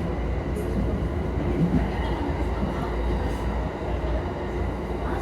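Ten-car commuter electric train at a station platform, a steady low rumble with station background noise.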